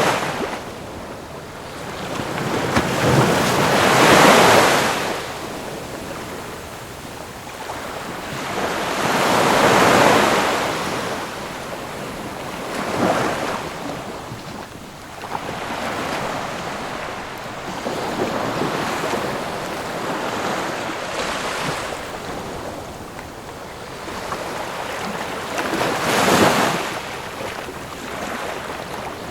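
Ocean waves breaking on a shore, the surf swelling and fading every few seconds, with wind in the background. The loudest breakers come about 4, 10 and 26 seconds in.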